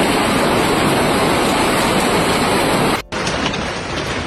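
Heavy storm downpour pounding down as a loud, steady rush. After a cut about three seconds in, a slightly quieter rush follows with scattered sharp taps of impacts on hard surfaces.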